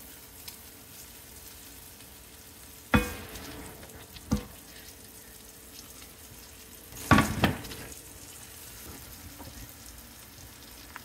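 Mushrooms and onions sizzling in the drippings of a cast-iron skillet as they are scraped in from a frying pan with a spatula. A knock against the pans about three seconds in, another a second or so later, and a louder clatter about seven seconds in.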